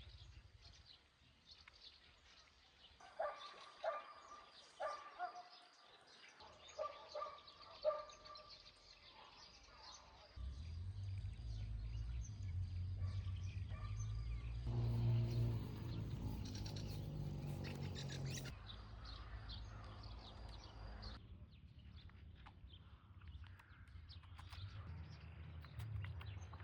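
Birds calling outdoors, with a series of short pitched calls in the first several seconds. From about ten seconds in, a steady low rumble runs underneath.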